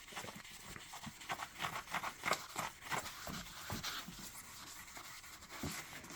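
SOS steel-wool soap pad scrubbing the dirt bike's plastic bodywork in a string of short, irregular scratchy rubbing strokes, a few a second.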